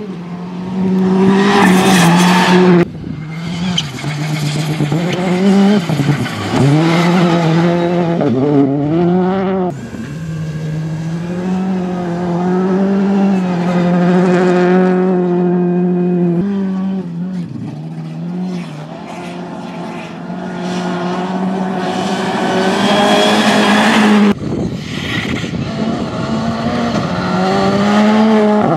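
Rally cars at speed, one after another, engines revving hard and dropping back through gear changes and corners. Each pass ends abruptly and a new car takes over, about every five to seven seconds.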